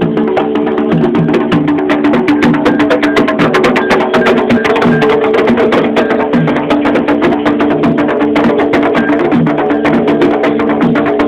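Afro-Brazilian ritual percussion music: fast, dense drum strokes with a bright wood-block-like click pattern, over a sustained sung melody.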